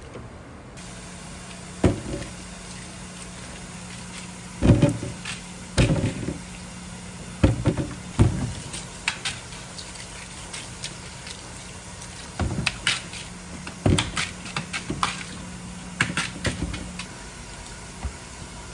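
Irregular kitchen clatter and knocks from food preparation, about eight sharp hits, over a steady low hum.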